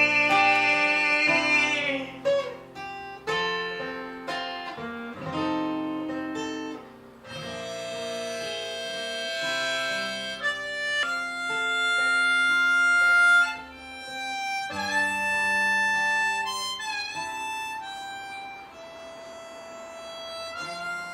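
Harmonica playing a melody of held notes over strummed acoustic guitar chords, an instrumental passage without singing; it grows quieter over the last few seconds.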